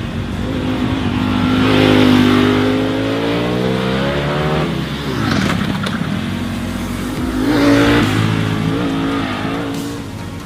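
Ducati Panigale V4 superbike's V4 engine revving, its pitch climbing and falling in waves, loudest about two seconds in and again near eight seconds.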